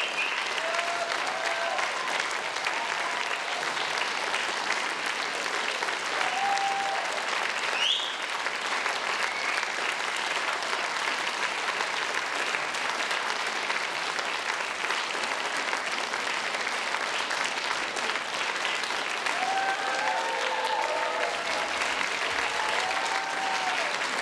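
Audience applauding steadily, with a few shouts and whoops from the crowd, one rising whoop about a third of the way in and several voices calling out near the end.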